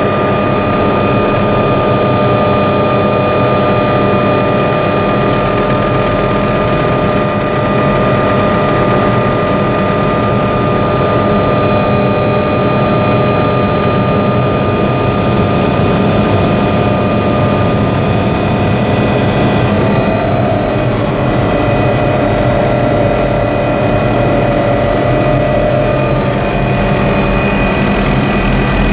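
Helicopter turbine engine and rotor running steadily, heard from aboard during the ride, a loud constant drone with several steady whining tones. About two-thirds of the way through the tones shift slightly in pitch.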